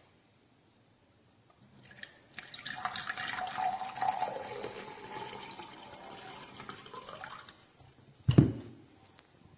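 Water running for about five seconds, with a tone that slowly falls as it goes, then a single dull thump near the end.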